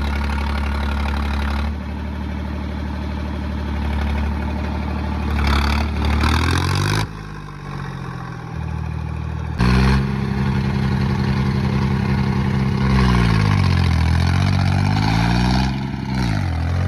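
Tractor diesel engine running hard and being revved. The pitch climbs, cuts off abruptly, then comes back loud about three seconds later. Late on, the pitch sags and recovers as the engine is loaded and then picks up again.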